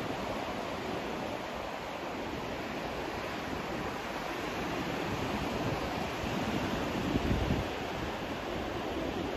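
Steady white noise: an even, continuous hiss spread across the whole range, with a brief swell in the low rumble about three-quarters of the way through.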